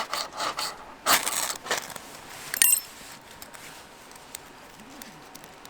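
Camp handling noises: a few short rustling scrapes in the first two seconds, then a brief bright clink that rings for a moment, then only faint ticks.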